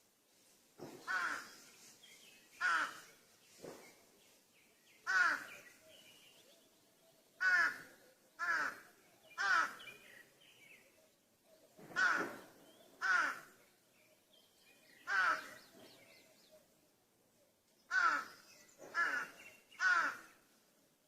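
Crows cawing: about a dozen short, harsh caws, often in runs of two or three about a second apart, with gaps of a couple of seconds between runs.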